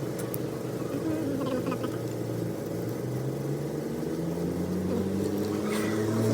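Ashok Leyland truck's diesel engine running steadily at idle, its pitch and level rising slightly near the end as it picks up speed.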